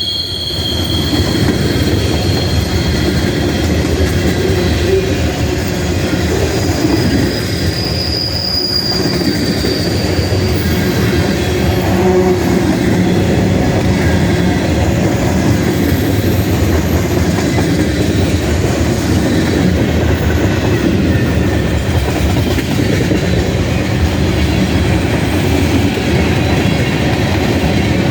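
Freight train cars rolling past: a steady, loud rumble of steel wheels on rail, with brief high wheel squeals near the start and again about eight seconds in.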